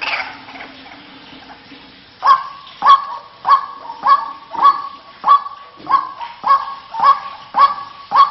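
White-breasted waterhen calling: after about two quieter seconds, a run of loud, evenly spaced calls, a little under two a second, each starting sharply and falling away.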